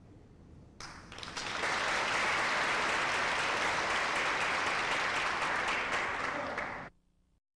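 A group of people applauding, beginning about a second in, quickly building to a steady full clapping, then cut off abruptly near the end.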